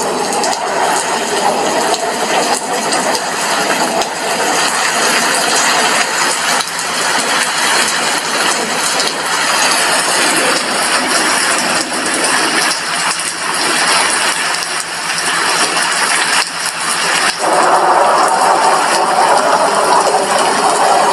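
Heavy rain pattering on a glass window, a dense steady crackle of drops that eases slightly about two thirds of the way through, then comes on fuller again.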